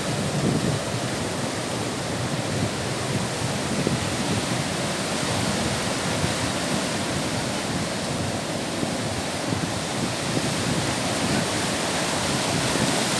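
Baltic Sea surf washing onto the beach: a steady rush of breaking waves.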